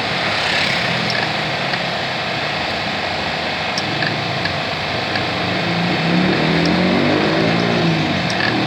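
A motor vehicle engine runs steadily under dense workshop noise, with a few light metallic clicks.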